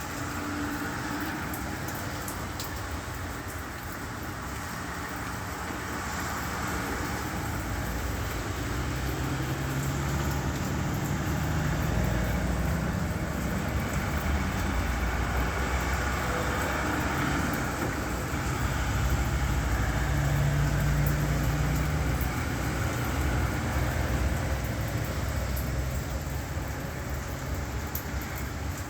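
Traffic noise in the rain: vehicle engines running with a low hum that grows louder about a third of the way in, over the steady hiss of rain and wet road.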